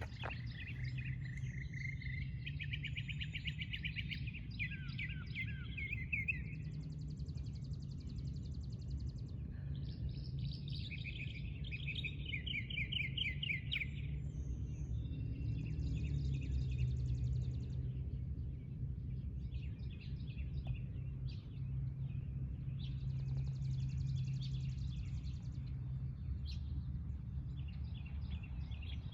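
Songbirds singing in the morning: repeated trilled and chirping phrases come and go, thickest in the first half, over a steady low rumble.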